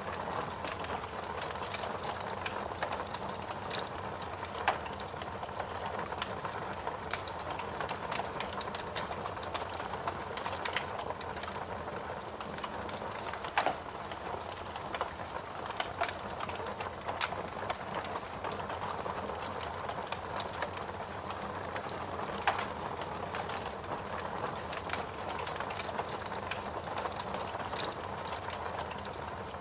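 Log fire in a fireplace crackling, with a steady hiss, frequent small pops, and a few louder snaps about five, fourteen and twenty-two seconds in.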